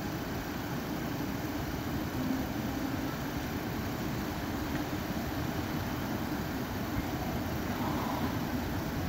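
Steady low rumble of a police SUV's engine idling.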